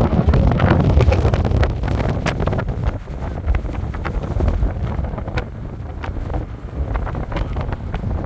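Strong wind buffeting the camera microphone in uneven gusts, with crackling pops. It is loudest at the start and eases a little after about three seconds.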